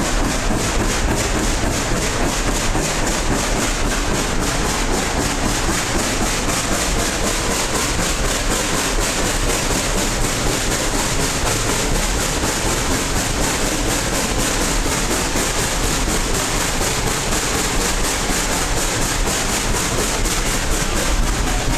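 Narrow-gauge heritage train rolling along the track, heard from an open passenger coach: a steady rattle of wheels on rails with fast, even clicking.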